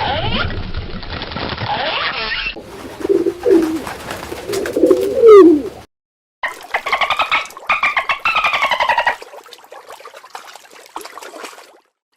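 Animal calls from several short clips cut one after another. One clip holds low calls that slide in pitch. After a brief silence about six seconds in, another clip brings rapid pulsed calls.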